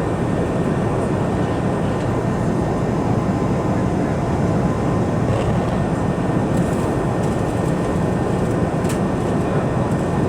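Steady cabin noise aboard an Airbus A380-800, the even drone of its engines and airflow heard from inside the cabin, with a couple of faint ticks in the second half.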